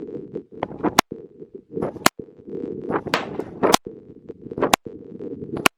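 Pistol shots from a 9 mm FN 509, five sharp reports about a second apart.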